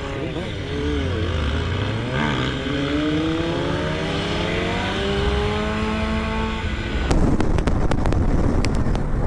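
Motorcycle engine accelerating, its pitch dipping briefly and then climbing steadily for several seconds. About seven seconds in, it gives way to a louder rough rushing noise with sharp knocks.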